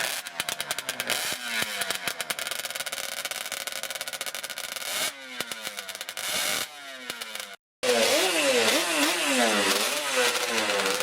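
Two-stroke motorcycle engines running and revving, in edited clips. In the first part the revs fall away; after a cut late on, the throttle is blipped repeatedly so the pitch rises and falls several times.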